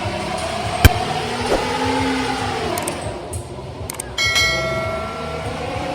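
Vehicle engines running, with a sharp knock about a second in and a short ringing tone near the end.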